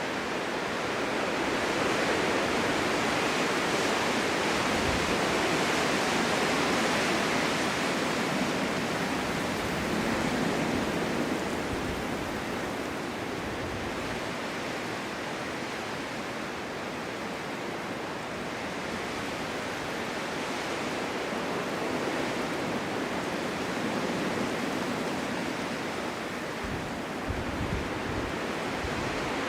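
Snowstorm wind blowing through a forest: a steady rushing that swells in the first few seconds, eases off about ten seconds in, and builds a little again later.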